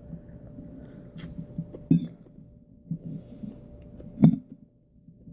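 A few soft knocks and clicks, the two sharpest about two seconds and four seconds in, over a faint steady hum.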